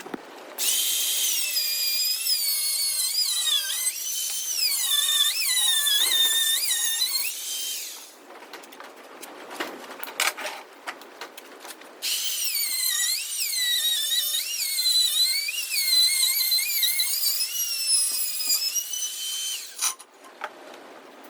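Power drill running in two long bursts of several seconds each, its motor whine dipping and rising in pitch as the trigger and load change. A few knocks sound in the pause between the bursts.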